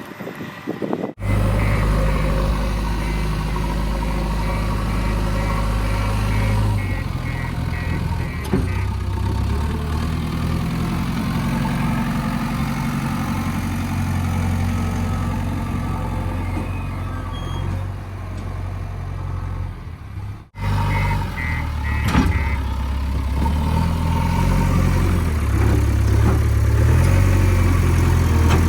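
A heavy diesel engine runs steadily, with two abrupt breaks where the sound cuts and resumes.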